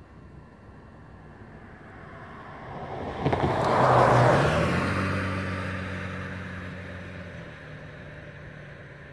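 A vehicle passing close by: a rush of noise that rises to a peak about four seconds in, then an engine hum that drops slightly in pitch and fades away.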